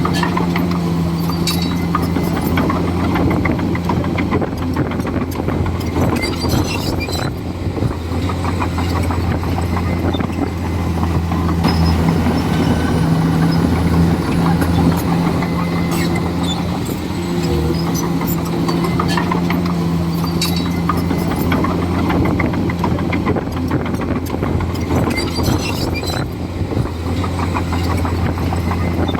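Komatsu D41E bulldozer's diesel engine running steadily with a deep hum, with scattered metallic clicks and rattles throughout.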